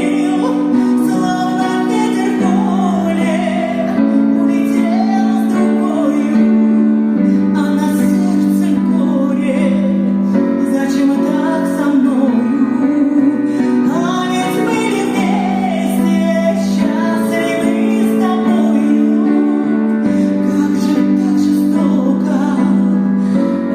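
Song with a woman singing a wavering melody over sustained, held chords.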